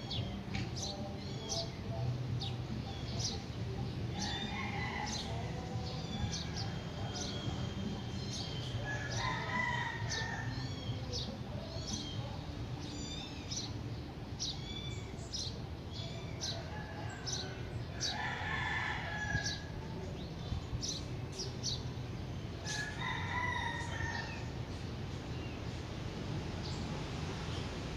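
Birds calling outdoors: a longer call comes four times, and short high chirps are frequent throughout, over a low steady hum.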